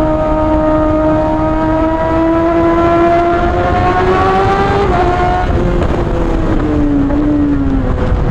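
Suzuki GSX-R600 inline-four with a straight-piped M4 exhaust and no cat, held at steady high revs and climbing slightly, then easing off about five seconds in as the revs fall away. Wind rush on the helmet mic runs underneath.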